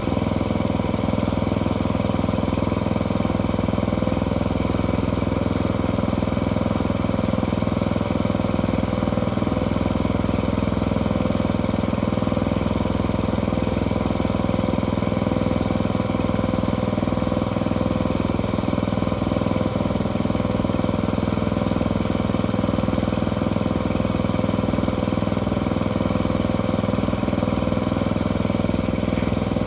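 An engine running steadily at one constant speed, with no change in pitch.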